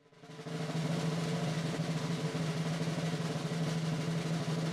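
A steady drum roll that fades in over the first second and then holds evenly.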